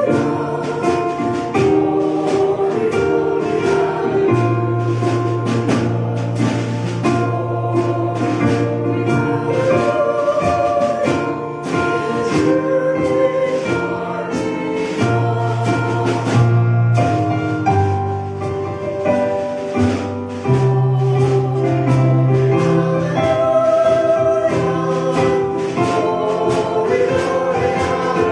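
Church worship music: a group of voices singing over a band, with held bass notes and a steady beat.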